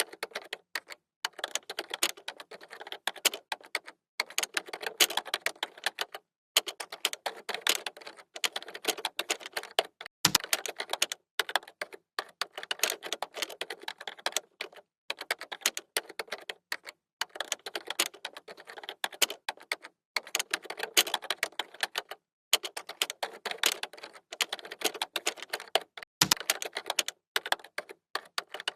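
Computer keyboard being typed on in quick runs of key clicks broken by short pauses, with a heavier key thump twice.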